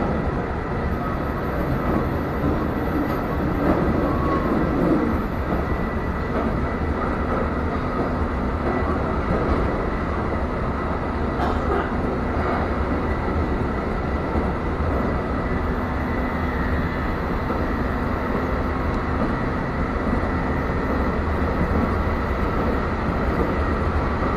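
Train running along the track, heard from inside the passenger car: a steady low rumble with a faint steady high whine, and a couple of light clicks near the middle.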